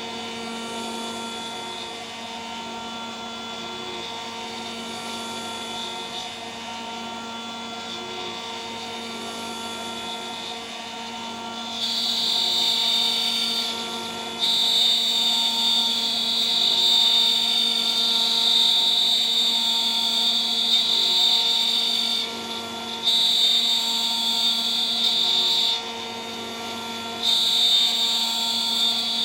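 DIY CNC router spindle running steadily at high speed with a three-flute 3 mm end mill. About twelve seconds in, a louder high-pitched cutting sound begins as the end mill bites into the workpiece. It comes in stretches of a few seconds, breaking off briefly between passes.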